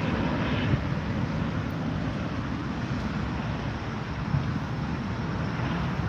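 Jet aircraft taking off, its engines making a steady low rumble with a rushing hiss above it.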